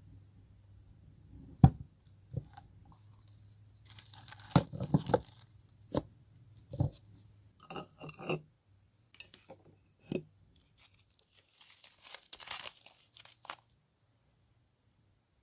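Paper being handled on a desk: rustling, crinkling and tearing in short spells, with scattered taps of small objects set down, the sharpest about two seconds in. The sounds stop shortly before the end.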